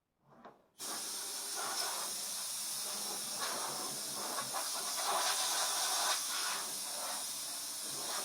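Compressed air blowing out a battery box: a steady hiss that starts suddenly about a second in, swells and eases a little, then cuts off sharply.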